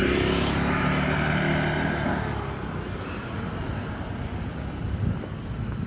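A motor vehicle's engine running close by, its hum fading after about two seconds, then a low rumble.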